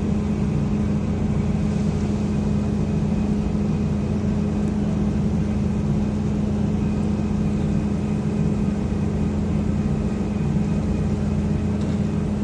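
Heavy machinery running with a steady, unchanging low hum.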